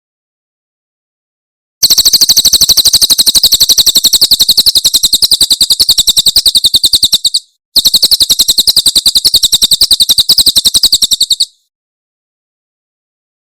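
A cililin bird singing its 'tembakan' burst song: two long, very fast trills of sharp, high, evenly repeated notes, the first about five and a half seconds long and the second about four, split by a brief pause. The notes are very loud.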